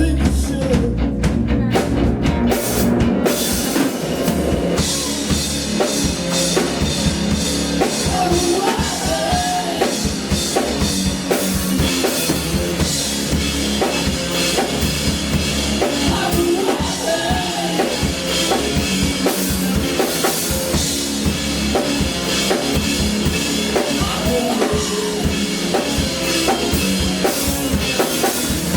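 Live band music with a drum kit: a beat of bass drum and snare hits under a wavering melodic line.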